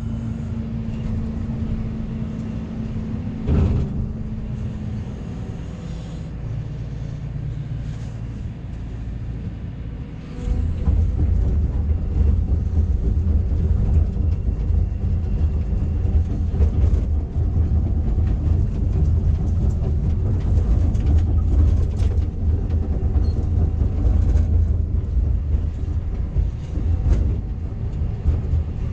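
Backhoe's diesel engine running steadily, then revving up about ten seconds in and staying louder, with a few short knocks.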